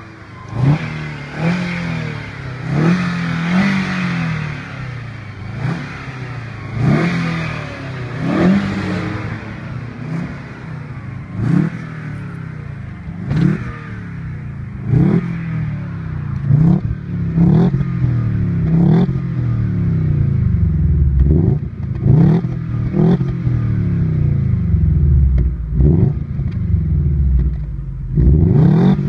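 Lada Granta Sport's four-cylinder engine being revved repeatedly through a modified exhaust tuned for a Subaru-style burble: quick throttle blips, each rising sharply and falling back, about one every second or so, with a rumbling idle between them.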